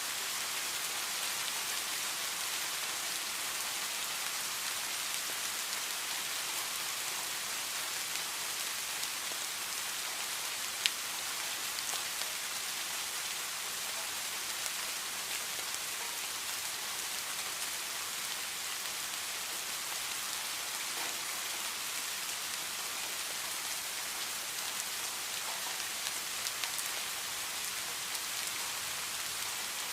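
Steady heavy rain falling, an even hiss with scattered single drop clicks; one sharp drop-like tick about eleven seconds in.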